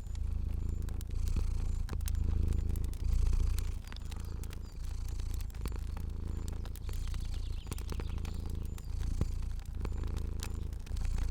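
Domestic cat purring, a low rumble that swells and eases about once a second, with the sharp pops of a crackling fire scattered over it.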